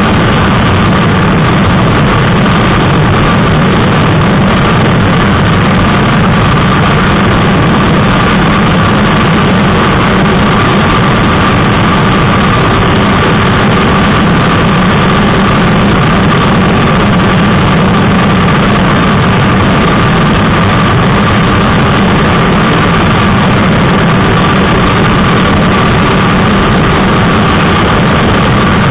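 Yamaha YZF-R3's 321 cc parallel-twin engine running steadily at speed, under loud, steady wind rushing over the microphone from a strong headwind.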